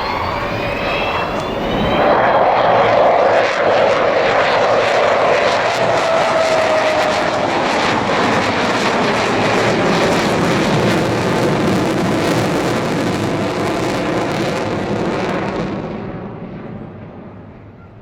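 Avro Vulcan delta-wing bomber's four Rolls-Royce Olympus jet engines during a flyby. The jet noise swells about two seconds in, stays loud with a falling whine as the aircraft passes, then fades away over the last couple of seconds.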